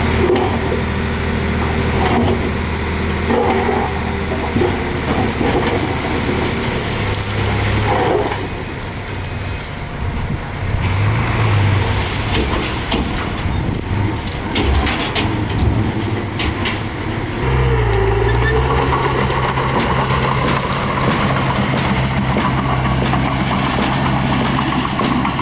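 Diesel engine of heavy earthmoving machinery running under varying load, its pitch rising and falling. Past the middle it settles into a steady idle.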